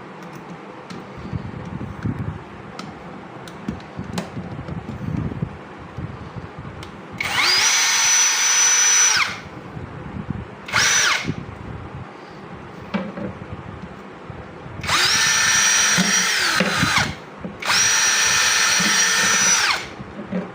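A 20 V brushless cordless drill run four times, each run with a high steady motor whine that spins up, holds and winds down. Three runs last about two seconds and one is a brief blip. Quieter handling noise comes between the runs.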